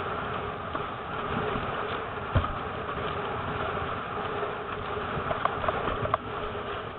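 Strong gusty wind buffeting the microphone, with rushing noise from the water, a sharp thump about two and a half seconds in, and a few clicks near the end.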